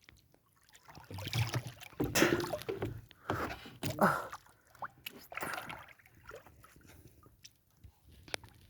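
Water splashing and sloshing in irregular bursts for a few seconds, then dying down near the end.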